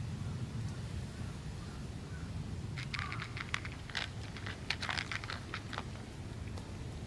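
A run of sharp crackling, crunching clicks lasting about three seconds, starting a few seconds in, over a steady low rumble.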